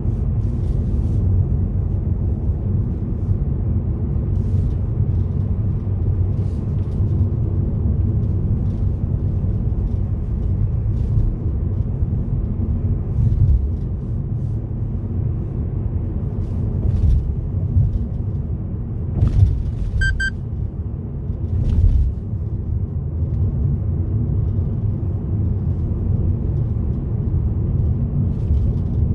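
A car being driven, a steady low rumble of engine and road noise with occasional knocks from bumps. A short run of quick high beeps comes about two-thirds of the way through.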